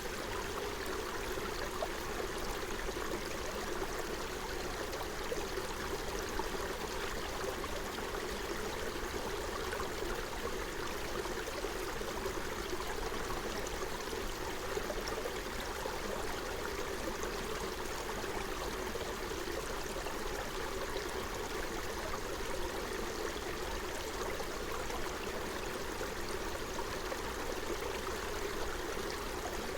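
Forest stream flowing steadily, its water babbling and gurgling over stones.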